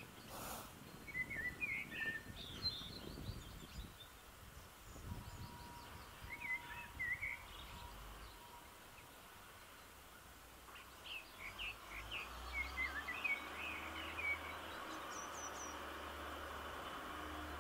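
Small birds chirping in several bouts of quick twittering calls over faint steady outdoor background noise.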